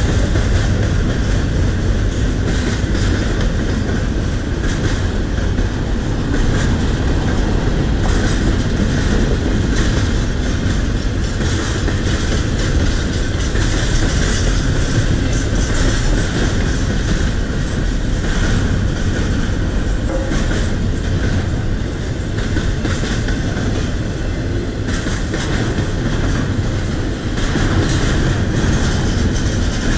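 Double-stack intermodal well cars of a freight train rolling past: a steady loud rumble of wheels on rail, with the clickety-clack of wheels over the rail joints running through it.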